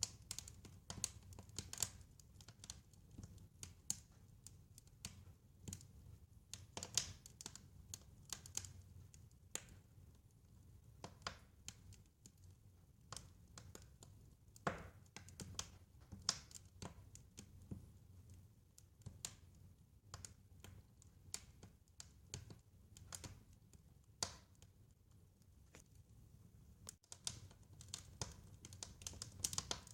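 Wood fire crackling: irregular sharp snaps and pops, a few louder than the rest, over a soft low rumble.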